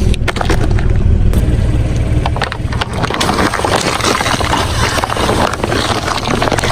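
A car's engine running low and steady while its tyres roll over objects, with a crackling, crunching noise of them breaking, growing denser about halfway through.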